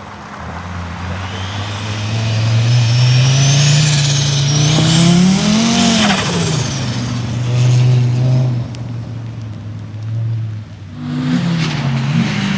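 Subaru Impreza rally car's turbocharged flat-four engine accelerating hard as it approaches and passes. The pitch climbs to a peak about six seconds in, then drops away, with a high whine rising and falling above it; the engine revs again near the end.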